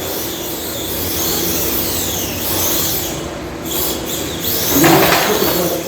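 Electric motor of a battery-powered RC monster truck whining, its pitch rising and falling as the truck speeds up and slows, over the noise of the truck running on the course.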